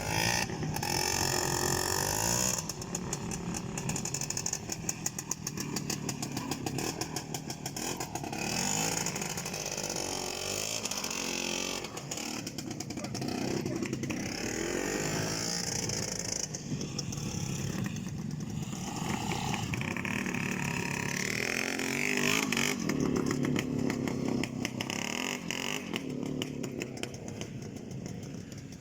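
Motorcycle engine revving up and down as it rides through mud, its pitch rising and falling again and again.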